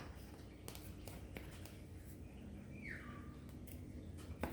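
Faint, scattered clicks and light taps of a measuring spoon against a container and mixing bowl while baking powder is scooped out, with one short falling chirp a little past the middle.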